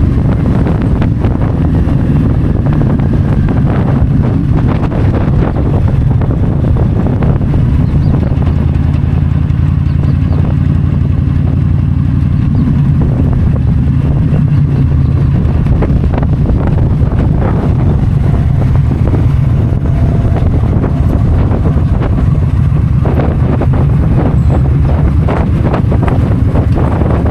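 Yamaha V-Star 1300's V-twin engine running steadily while riding, with wind buffeting the microphone.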